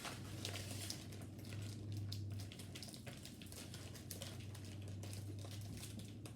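Plastic snack wrapper crinkling and crackling in small irregular bursts as it is handled and opened, over a steady low hum.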